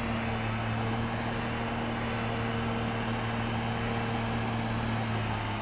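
An engine running steadily with an even, low hum and no change in speed.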